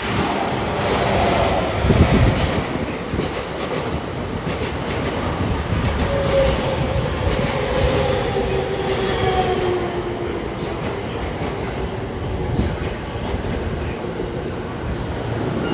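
JR East E231 series 1000 electric commuter train pulling into the platform at speed and braking: steady rumble and clatter of wheels on the rails, with a whine that falls in pitch as it slows.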